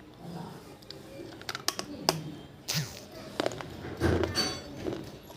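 Water-soaked fired-clay diya pieces being crushed, giving irregular sharp cracks and gritty crunching, with a denser crumbling burst about four seconds in.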